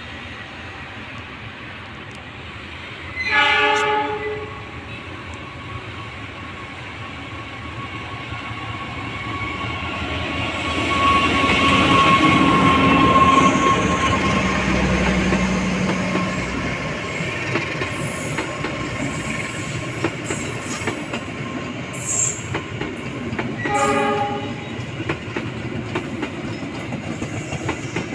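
Train horn blast lasting about a second, then a train passing close by: a rumble that builds to its loudest about halfway through, followed by a run of wheel clicks over the rail joints. A second short horn blast sounds near the end.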